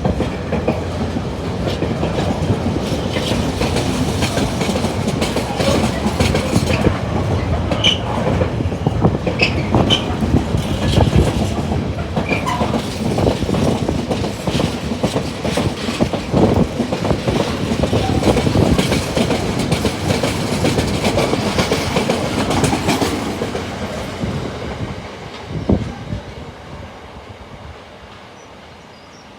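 Freight train wagons rolling past, wheels clattering over the rail joints in a long run of clickety-clack, which fades out over the last few seconds as the end of the train goes by.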